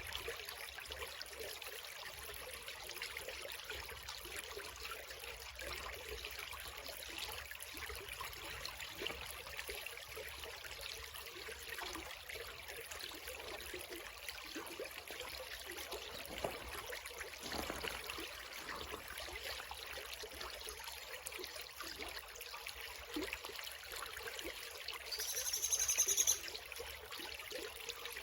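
Small creek trickling and flowing steadily over stones. Near the end, a bird gives one loud, high call lasting about a second and a half.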